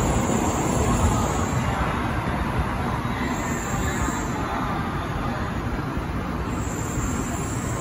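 Tōkaidō Shinkansen train accelerating away from the platform: a steady rush of wheels and air as the last cars slide past, slowly fading once the tail has gone.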